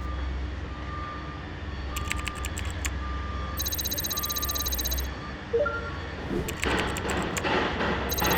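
Construction vehicle's reversing alarm beeping about once a second over a steady low engine rumble; after about five seconds the beeping stops and a louder, rougher clatter with knocks takes over.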